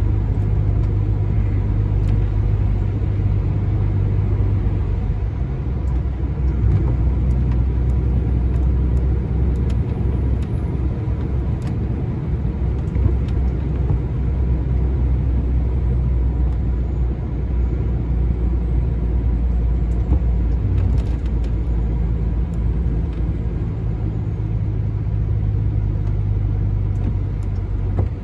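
Lorry's diesel engine and road noise heard from inside the cab while driving, a steady low drone whose pitch drops about six seconds in and rises again about twenty seconds in.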